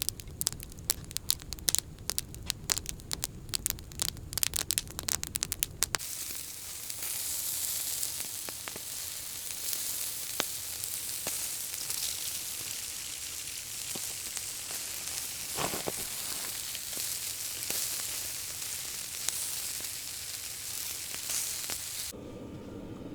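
Fire crackling with rapid sharp snaps, then from about six seconds in a steady sizzling hiss with a few scattered pops.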